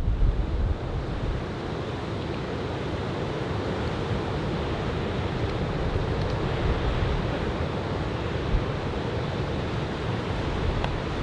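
Ocean surf from a typhoon swell breaking and washing on the beach as a steady rush, with wind buffeting the microphone, strongest in the first second.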